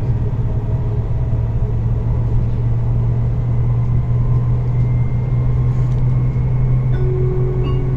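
Rhein-Ruhr-Express electric train heard from inside the passenger cabin, accelerating hard at full power: a loud, steady deep rumble of the running gear, with a faint high electric whine that comes in and slowly rises about five seconds in.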